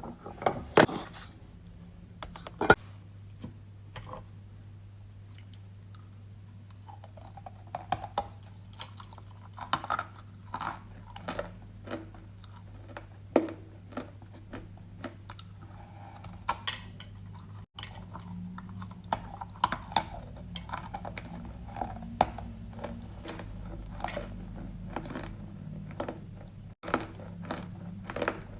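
Dry, crumbly edible clay being bitten and chewed close to the microphone: irregular crisp crunches and crumbling, some loud, over a low steady hum.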